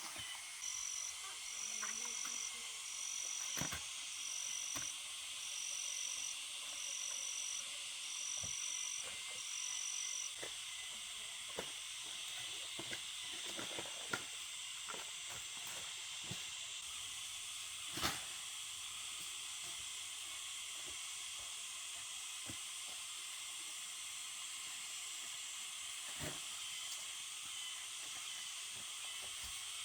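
Steady high hiss with scattered light clicks and knocks, the sharpest about 18 seconds in. For the first ten seconds a high note repeats about once a second.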